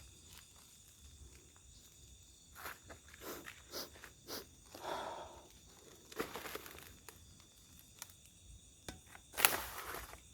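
Footsteps crunching through undergrowth, irregular and uneven, with a sharper, louder crunch near the end.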